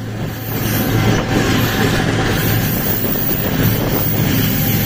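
Passenger train running and gathering speed, heard from an open coach doorway: a steady rumble of wheels on the rails and coach rattle, with a low drone beneath and wind on the microphone.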